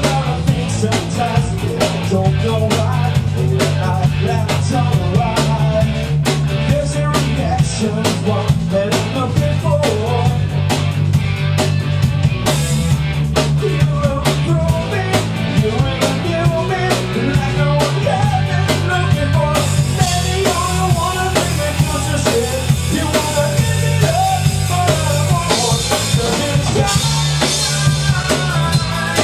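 Rock band rehearsing a cover song: steady drum kit beat under electric guitar and bass, played continuously.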